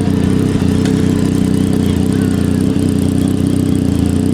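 Engine idling steadily through a loud performance exhaust, a low, even drone with no revs.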